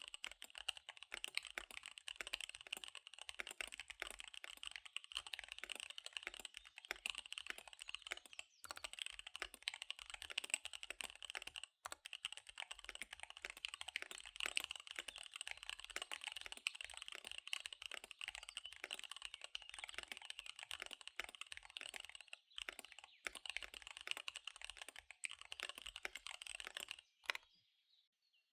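Fast typing on a KBD75 V3 mechanical keyboard with SP-Star Dark Magic Girl tactile switches and DSA keycaps: a dense, rapid run of key clicks with a few brief pauses. The typing stops about a second before the end.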